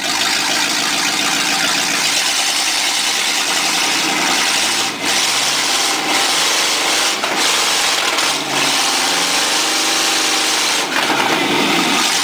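Chevy 350 small-block V8 in a stock-car race truck running loud, freshly rebuilt with new gaskets. It is revved and let back several times, with brief drops in level and the engine pitch rising and falling near the middle.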